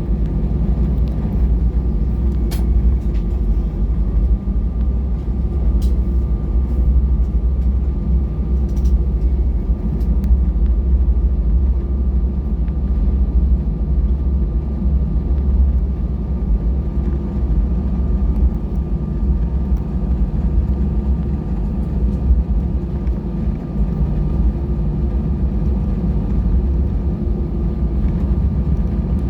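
Airbus A320 cabin noise on the ground before takeoff: a steady low rumble with a constant hum. A few faint clicks come in the first ten seconds.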